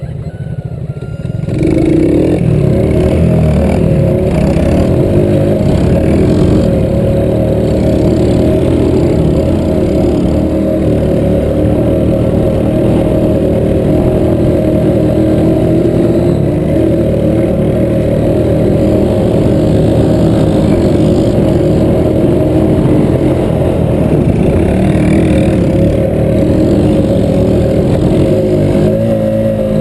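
Small single-cylinder four-stroke engine running under throttle close by. It gets much louder about a second and a half in and then stays at a steady high level, with its pitch wavering as the throttle changes.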